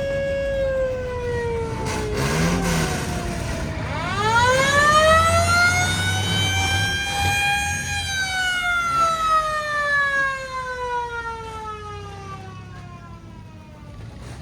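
A wailing siren: a held tone winds down over the first few seconds, then about four seconds in it winds up again to a peak and slowly falls away toward the end, over a low vehicle rumble.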